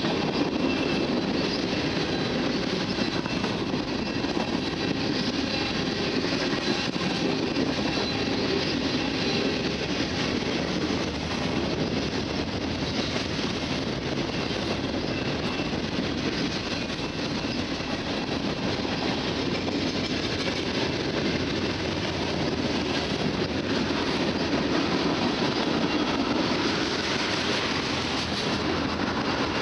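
Freight cars rolling past at trackside: the steady noise of steel wheels running on the rails, without a break.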